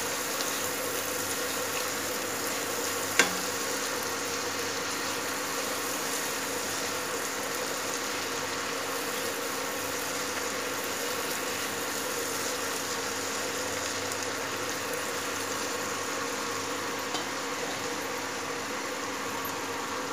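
Chopped onions with ginger-garlic-green chilli paste frying in oil and butter in a pan, a steady sizzle while being stirred, with one sharp click about three seconds in.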